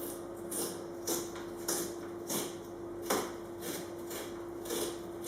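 A small vegetable knife twisted back and forth through the wall of a pumpkin to bore a hole: short, repeated scraping strokes of the blade in the flesh, about two a second.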